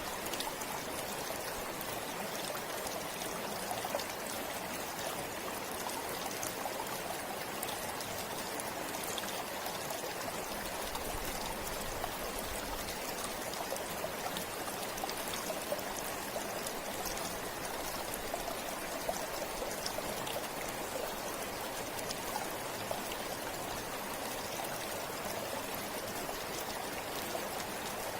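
Forest river flowing steadily over stones, a continuous rushing with fine splashing and trickling.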